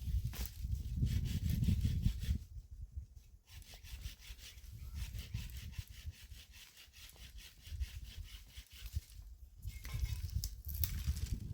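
Firewood being cut with a hand saw in rapid, even strokes, running from a few seconds in until near the end, after a low rumble at the start.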